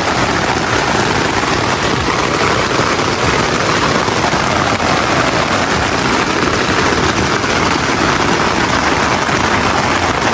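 Heavy rain pouring steadily onto a tent, a dense unbroken hiss and patter.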